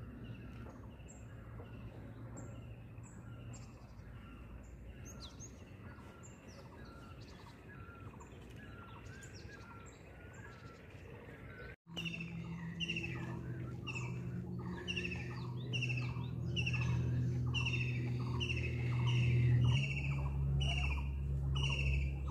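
Several wild birds calling together, a chorus of short chirps and whistles repeated about twice a second. About halfway through, the calls suddenly become louder and denser, with a low steady drone underneath.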